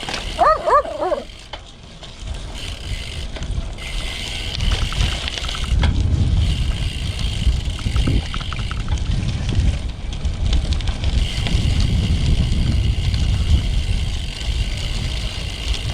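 Wind rumbling on the microphone of a road bike in motion, with tyre and drivetrain hiss; the rumble builds after about two seconds as the bike picks up speed and then stays steady. A few short, high yelps come in the first second.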